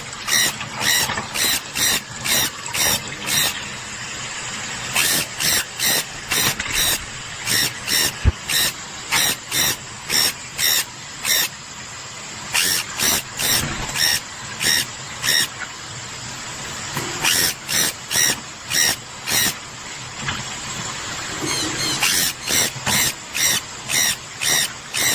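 Sun conures calling with shrill screeches, about two a second, in runs of several with short pauses between runs.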